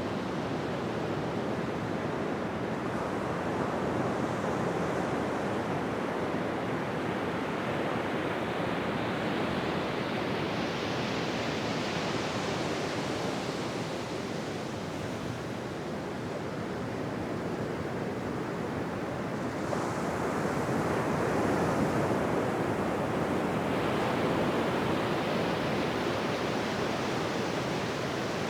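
Ocean surf on a beach: a continuous wash of breaking waves that swells and eases as successive waves come in, with brighter surges building about ten seconds in and again after twenty seconds.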